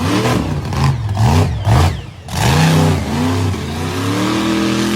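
Monster truck engine revving in a series of quick blips, then revving up about two seconds in and holding at a steady high pitch.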